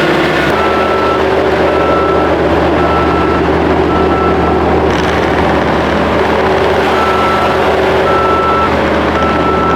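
Heavy snow-removal equipment running steadily with its backup alarm beeping about once a second as it reverses. The beeping stops for a couple of seconds midway, then starts again.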